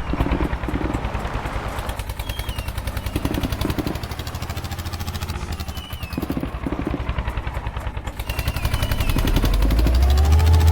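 Diesel tractor engine running, with fast, evenly spaced exhaust pulses. Near the end a pitched tone rises and then holds steady.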